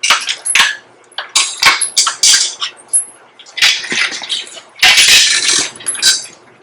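Short, irregular bursts of metal squeaking, scraping and clinking, roughly once a second, from a heavy cast tractor wheel being worked loose and moved on a shop engine hoist.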